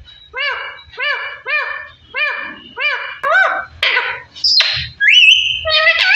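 Pet parrot calling: a run of about six short repeated calls, roughly two a second, then harsher squawks and rising whistles near the end.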